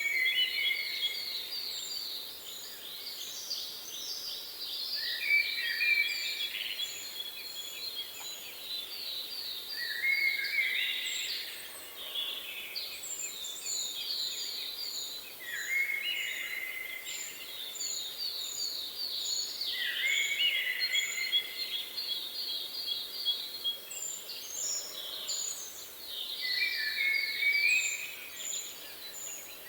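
Songbirds singing: several overlapping songs of fast trills and short falling notes recur every few seconds, with a thin high note repeated a few times a second over a faint steady hiss.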